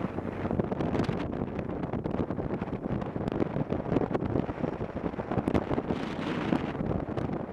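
Wind buffeting the microphone of a moving motorcycle, a steady rushing noise that rises and falls, with road and vehicle noise underneath.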